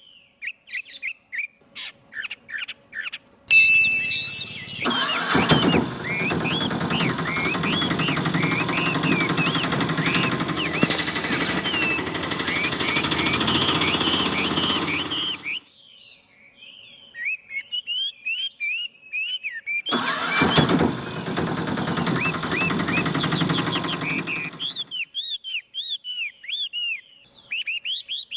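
A small motor runs in two long stretches, about twelve seconds and then about five, with birds chirping throughout.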